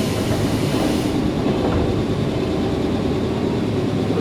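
Nankai 7100 series electric train running between stations, heard from inside the car: a steady rumble of wheels on rail, with a brief high hiss in the first second that fades away.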